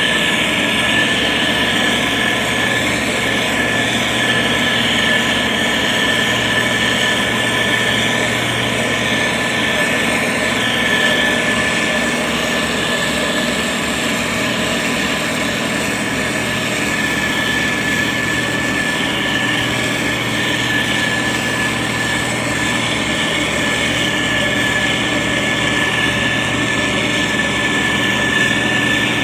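SANY STG190C-8S motor grader's diesel engine running steadily while the grader works soil, with a constant high whine over the engine hum.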